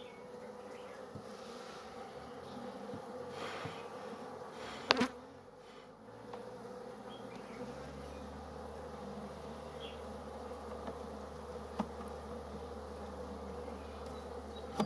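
Honey bees of an opened hive buzzing in a steady low hum. A single sharp knock about five seconds in, and a fainter tick near twelve seconds.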